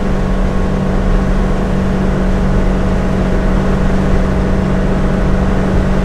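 Turbocharged 5.3-litre LS V8 in a 1968 Pontiac GTO cruising at a steady speed, heard from inside the cabin. It gives a steady engine and exhaust drone over road noise, with no change in revs.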